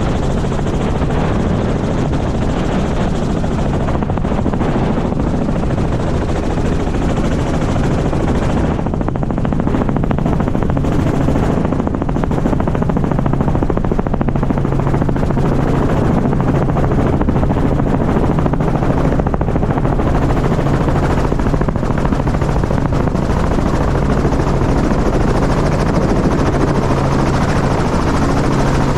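Helicopter running steadily: a constant engine and rotor drone with a low, even hum.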